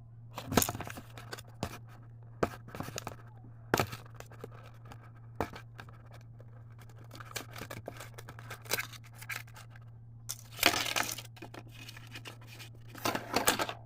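Toy packaging being opened: cardboard and plastic tearing and rustling, with scattered clicks and knocks, over a steady low hum.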